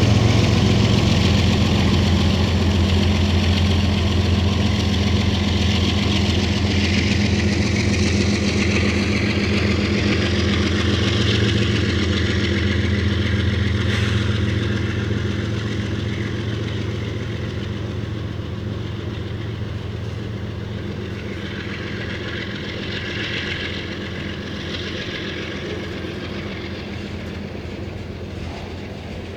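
Diesel freight locomotive engines running steadily with a deep, even throb, slowly fading away over the last half.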